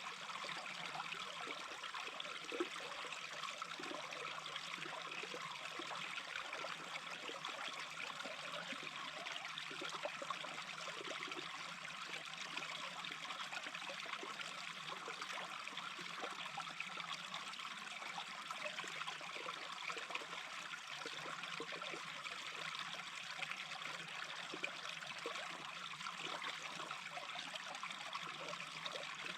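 Small brook babbling and trickling steadily.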